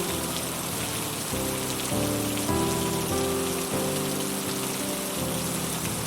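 Heavy rain falling steadily on a roof, with a slow music track of held notes over it that change every second or so.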